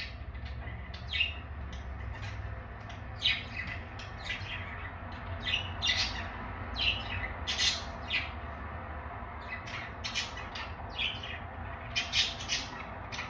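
Pet budgerigars chattering and squawking: a run of short, scratchy calls, some louder than others, over a steady low hum.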